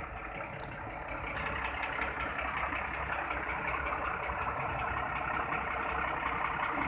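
Heavy trucks running in slow, queued traffic: a steady engine rumble and road noise that grows slowly louder.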